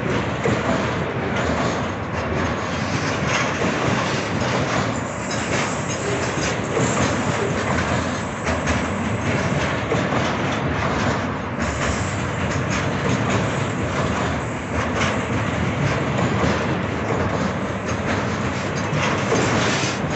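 Freight train of container-laden flatcars rolling past close by: a steady rumble of steel wheels on the rails, broken by repeated clacks as the wheels cross rail joints.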